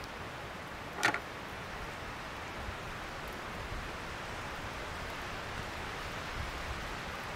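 Steady hiss of precipitation falling through the forest, with one short, sharp crack about a second in.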